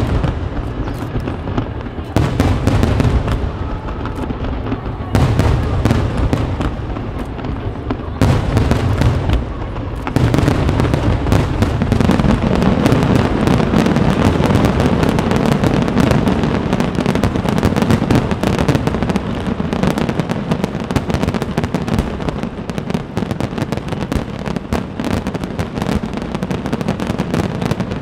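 Aerial fireworks shells bursting: separate deep booms every two or three seconds, then from about ten seconds in a continuous rapid barrage of bangs and crackling.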